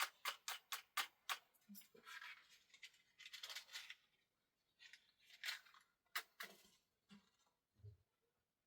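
A quick run of sharp snipping clicks, about three to four a second, then rustling and a few scattered clicks: close-up handling or cutting of some material.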